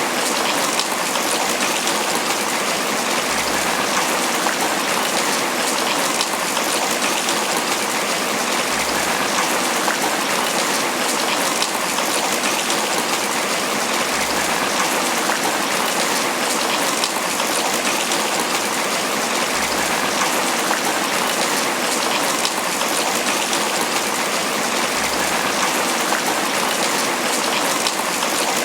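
Tropical rain falling steadily on banana leaves: an even, unbroken patter of drops on the broad leaves.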